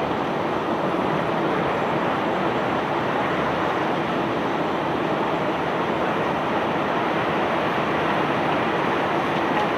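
Self-unloading barge's unloading machinery running with a steady, even rumbling rush that does not change.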